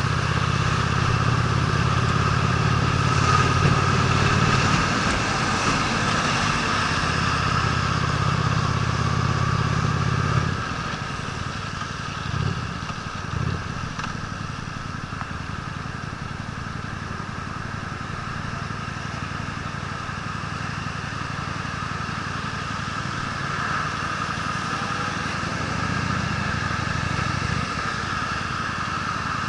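Honda Steed V-twin motorcycle engine running on the move, pulling under throttle, then easing off about ten seconds in to a quieter steady run. The engine briefly comes up again near the end.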